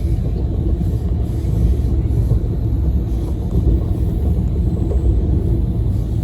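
Train running through a tunnel: a steady, loud, deep rumble that holds even throughout.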